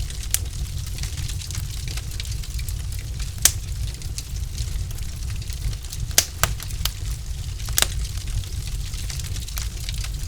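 Logs burning in a fireplace: frequent small crackles over a steady low rumble, with a few sharp, louder pops.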